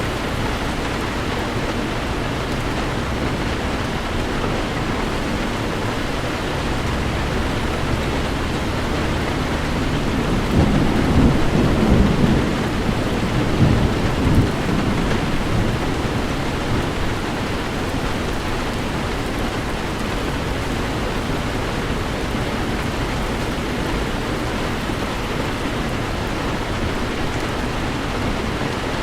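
Heavy rain falling steadily on a car, with a rumble of thunder swelling from about ten seconds in and fading by about fifteen seconds.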